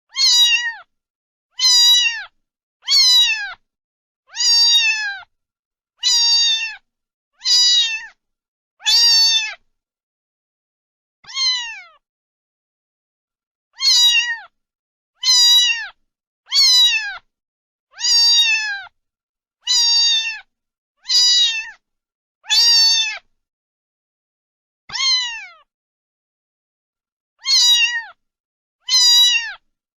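Domestic cat meowing over and over, about eighteen times. Each meow is short and falls in pitch, and there are a few longer pauses between some of them.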